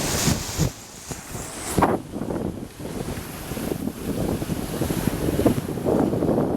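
Wind gusting and buffeting the microphone, with the wash of sea waves on the shore beneath it.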